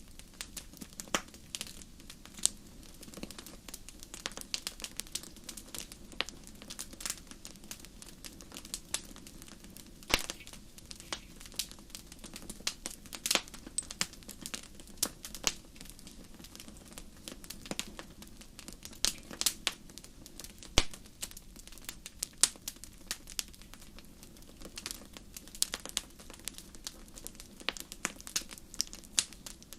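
Wood fire crackling: irregular sharp pops and snaps over a low steady hiss of burning.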